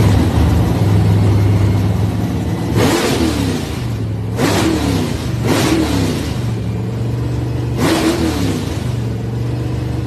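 Muscle car engine idling with a lumpy, steady beat, blipped four times; each rev flares up and falls back to idle.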